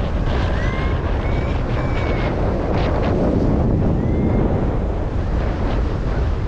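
Strong wind rushing and buffeting over the microphone, steady and loud. A few faint, short whistling tones glide upward over it in the first couple of seconds and again about four seconds in.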